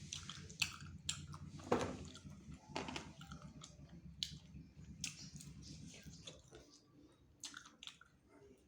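Close-miked chewing and wet lip smacks from a person eating chicken wings, irregular, with the loudest smacks about half a second and just under two seconds in. A low steady hum sits underneath and fades out about two-thirds of the way through.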